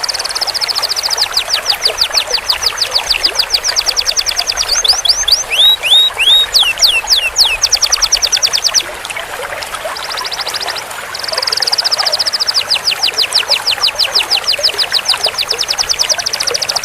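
Domestic canary singing: a long, very fast rolling trill, then several sweeping notes about halfway through, a short quieter trill, and a second long roll near the end.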